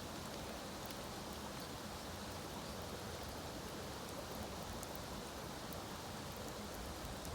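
Steady rain falling, with scattered light ticks of drops.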